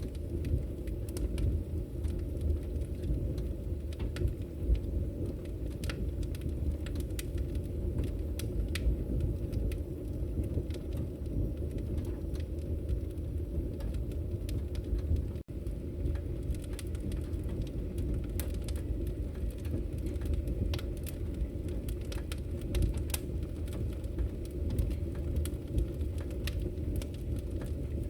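Wood fire burning: a steady low rumble with many sharp crackles and pops scattered irregularly throughout. The sound cuts out for an instant about halfway.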